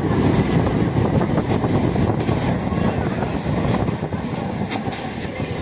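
Steady rumble and rattle of trains running, with a rake of Indian Railways passenger coaches passing close alongside on the next track, heard from an open train doorway.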